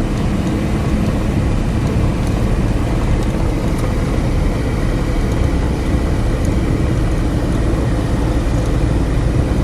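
Steady road and engine noise of a small car driving, heard from inside the cabin: an even low rumble with a faint steady high tone over it.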